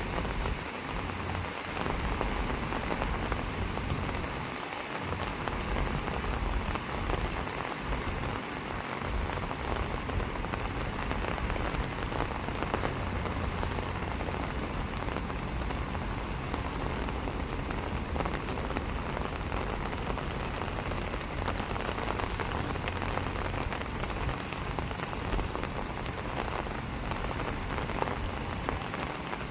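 Steady rain falling, a dense even patter with no letup.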